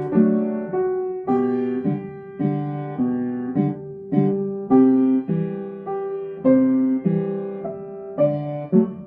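Piano playing a simplified arrangement of a pop song: a melody over an easy left-hand chord accompaniment, notes and chords struck at an even, moderate pace.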